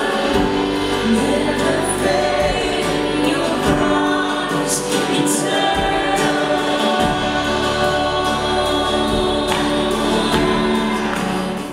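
Live worship music: a band playing with many voices singing together. It cuts off suddenly at the end.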